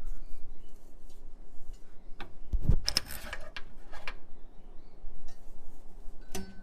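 Metal parts and tools clinking and knocking against each other during hands-on fitting work, with a heavier knock and thud about two and a half seconds in and a sharp clink that rings briefly near the end.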